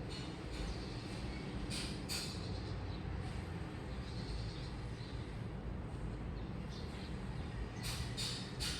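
Washing machine running with a steady low rumble and short hissing noises: twice about two seconds in and three times near the end.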